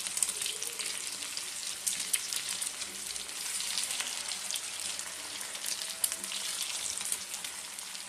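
Potato-and-chicken cutlets shallow-frying in hot ghee on an iron tawa: a steady high-pitched sizzle with crackling and a few sharper pops.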